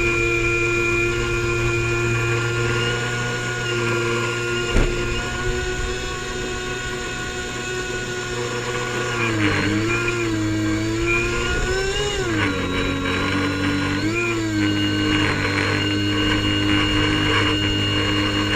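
Airboat engine and propeller running at a steady speed. Several times in the middle the pitch dips and swings back up, then settles a little lower. There is a single sharp knock about five seconds in.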